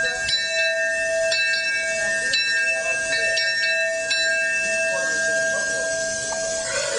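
Steam locomotive bell ringing, struck about once a second, its ringing dying away near the end.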